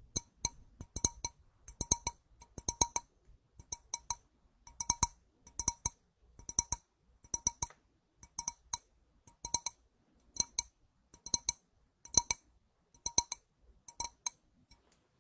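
Light, bright clinks with a short ringing tone, repeating in a steady rhythm a little more than once a second.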